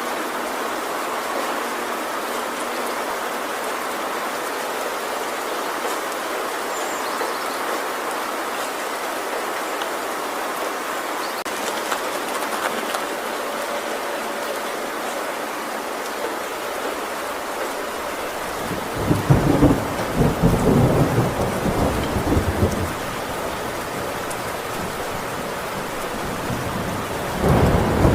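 Heavy rain falling steadily on a tin roof, with thunder rumbling for several seconds about two-thirds of the way through and starting again near the end.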